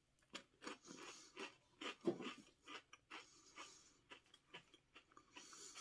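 Faint crunching of a person chewing a crispy, light wafer roll with strawberry cream filling, in short irregular crunches about three a second.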